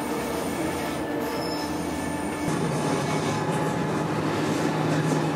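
Running noise inside a moving passenger train carriage: a steady rumble with a thin, steady whine over it. The sound shifts abruptly about two and a half seconds in.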